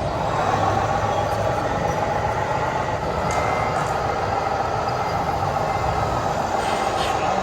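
Radio-controlled model trucks and construction machines running, with a steady whir from their motors and gears.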